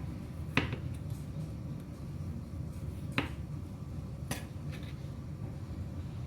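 Kitchenware clinking and knocking, three sharp strikes a second or so apart, over a steady low hum.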